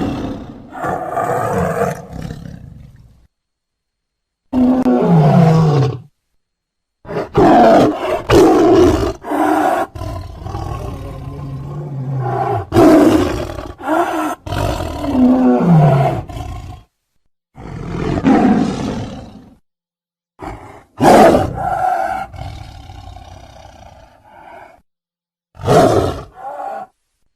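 Siberian (Amur) tiger roars and growls: a string of about seven separate calls, some with a falling pitch, each cut off abruptly with short silences between.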